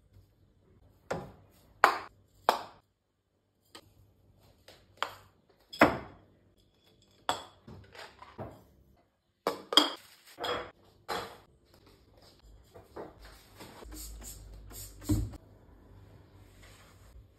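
Food storage containers being handled and set down in a pantry cupboard: a run of sharp clinks and knocks, some ringing briefly, with a stretch of rustling in the second half and a louder knock near the end.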